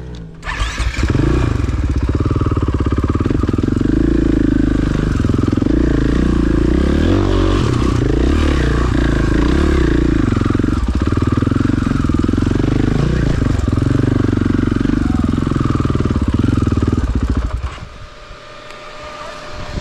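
KTM 500 EXC-F single-cylinder four-stroke dirt bike engine revving hard and unevenly under load, the pitch rising and falling as the throttle is worked up a steep rocky climb. The engine note drops away sharply near the end.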